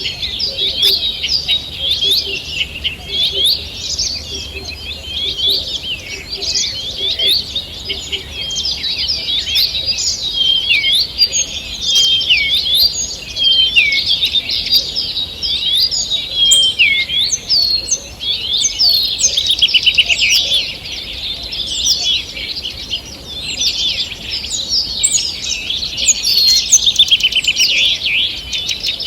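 A morning chorus of several songbirds singing at once: dense overlapping chirps, whistles and rapid trills, continuous throughout.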